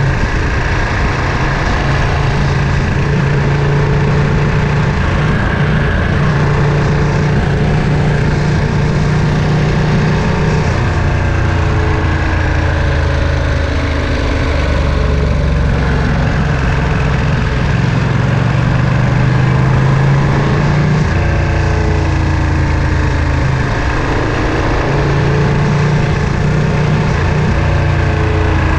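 Ducati Panigale V2's 955 cc Superquadro V-twin engine and exhaust running on a ride, its note stepping and sliding in pitch a few times with throttle and gear changes.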